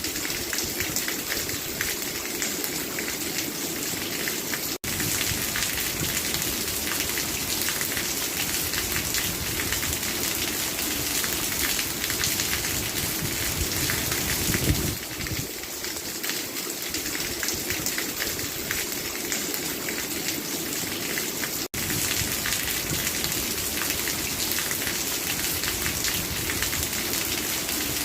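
Steady, heavy rain falling, a dense patter of drops on surfaces. The sound drops out for an instant twice, once about five seconds in and again about twenty-two seconds in.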